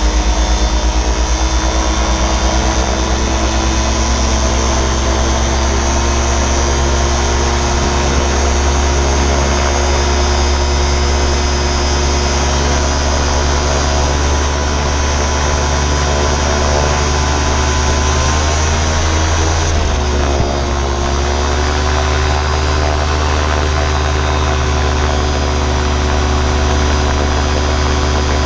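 Vancraft gyroplane's engine and propeller running steadily at power, with a slight dip and shift in engine pitch about twenty seconds in.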